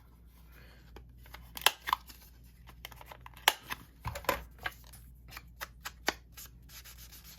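Paper tags and ephemera being handled and sorted: irregular crisp rustles and sharp paper clicks and taps, the loudest about one and a half and three and a half seconds in.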